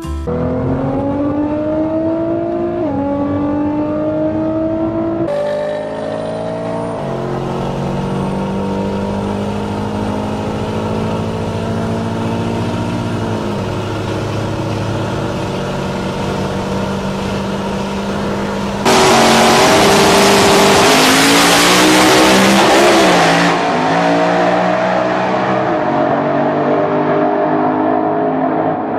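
Twin-turbo Ford Coyote 5.0 V8 in a Mustang accelerating hard through the gears, its pitch climbing and dropping back at each upshift, twice in the first few seconds. About two-thirds through, a sudden, much louder stretch of rushing wind and engine noise lasts several seconds.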